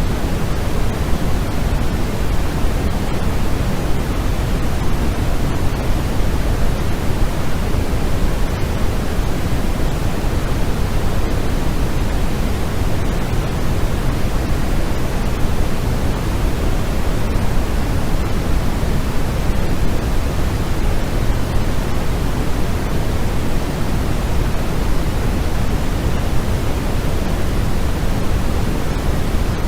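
Steady, unchanging synthetic noise sold as white noise, with a deep, even rush that is heavier in the low end than the highs, like pink noise.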